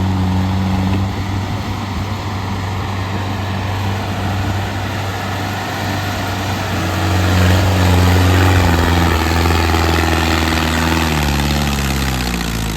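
Mahindra Arjun diesel tractor engine working hard under heavy load, pulling a fully loaded trolley at full throttle. It is loudest a little past the middle, then its pitch drops over the last couple of seconds as the revs fall.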